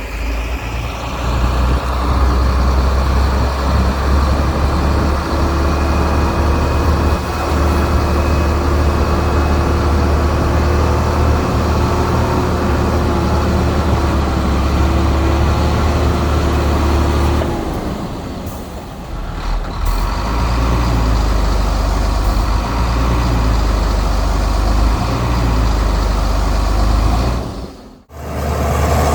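Heavy diesel engine of earthmoving machinery running hard and steadily, easing off for a couple of seconds past the middle and then picking up again; it cuts out abruptly for a moment near the end.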